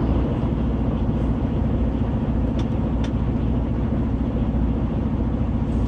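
Semi-truck diesel engine running steadily at low speed, a low even hum heard from inside the cab.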